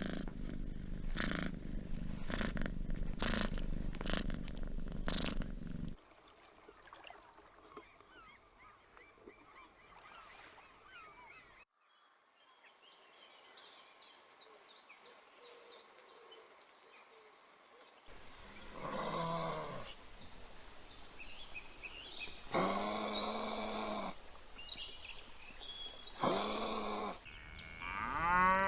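A string of animal sounds. First comes a loud, low, pulsing rumble lasting about six seconds, then a quiet stretch with faint high chirps. After that come four or five drawn-out pitched calls about a second each, of the kind made by farm livestock.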